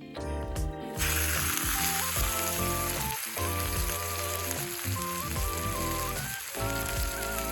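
Steak sizzling as it fries, the sizzle starting about a second in, over background music.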